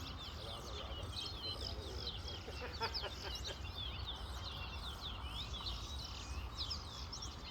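Caged songbirds singing in a song-count contest, with rapid, overlapping high chirped notes throughout. A few short clicks come about three seconds in, over a steady low rumble.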